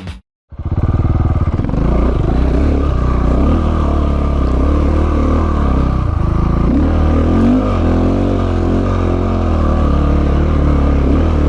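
KTM 690 Enduro's single-cylinder four-stroke engine pulling up a steep climb, its revs rising and falling as the bald rear tyre spins for grip.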